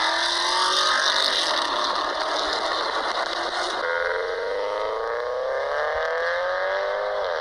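Car engine accelerating, its pitch rising steadily. About four seconds in it cuts to a second recording, a Subaru Forester accelerating with another steady rise in pitch, which dips briefly just before the end.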